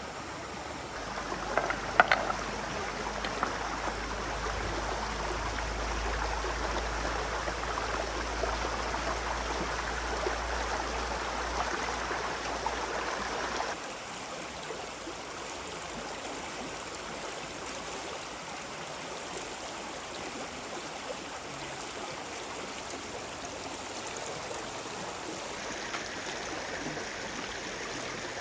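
Stream water flowing in a steady rush, with a few sharp clicks about two seconds in. About fourteen seconds in, the rush drops abruptly to a quieter, thinner level.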